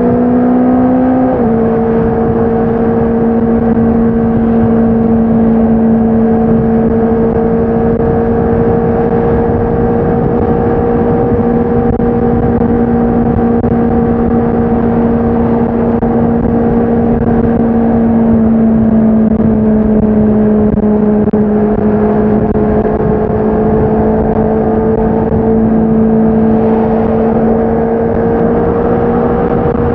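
Honda CBR650R's inline-four engine and exhaust under way with a steady, high-pitched note. The pitch climbs briefly and steps down about a second and a half in, then holds steady, sags a little past the middle and rises gently again near the end.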